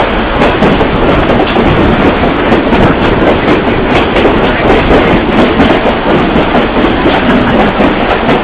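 Excursion train rolling along the track, heard from aboard: a steady, loud rumble of the passenger car, with wheels clicking irregularly over the rail joints.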